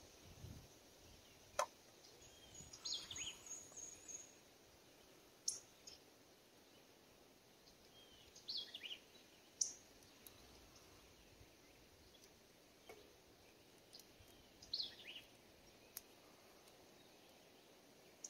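Near silence, broken three times by a bird's short falling chirp several seconds apart, and by a few faint sharp clicks.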